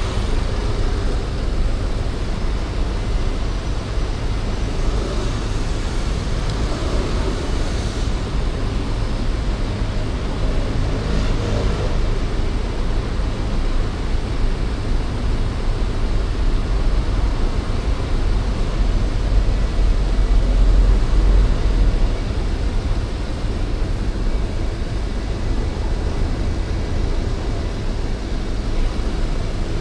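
City road traffic heard from the street: a steady wash of passing cars with a deep rumble that grows louder about two-thirds of the way through.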